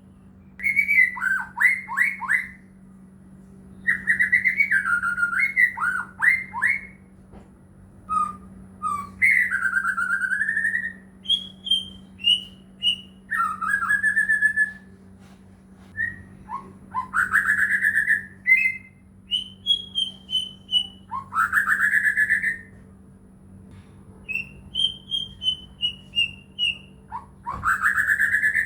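A white-rumped shama (murai batu) singing in separate whistled phrases of one to two seconds with short pauses between them. The phrases mix sweeping rising and falling notes with quick runs of short chips.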